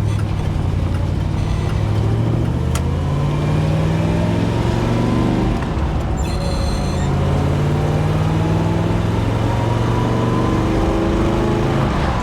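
1967 Chevrolet Impala SS's 396 big-block V8 accelerating through the gears of its Muncie 4-speed manual, the engine note climbing in pitch and dropping back at each shift, heard from inside the open-top convertible.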